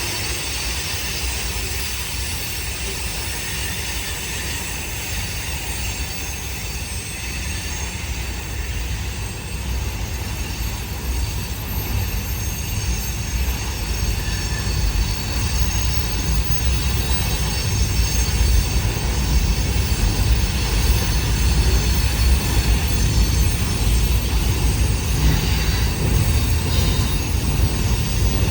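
CSX passenger train rolling across a railroad bridge: a steady low rumble that slowly grows louder as it comes on, with faint thin squealing from the wheels on the curve.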